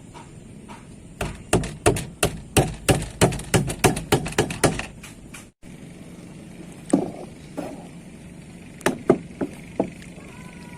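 Rapid series of sharp strikes on wood, about three or four a second, breaking off after a few seconds; a few scattered single knocks follow.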